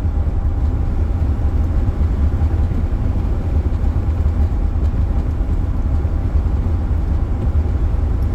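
Steady road noise of a car driving at speed: a deep, even rumble with a fainter hiss above it.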